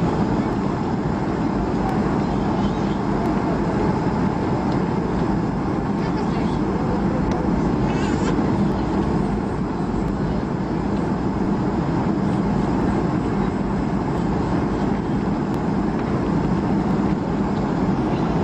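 Steady jet engine and airflow noise heard inside a Boeing 757's cabin during the landing, with a constant low hum running underneath.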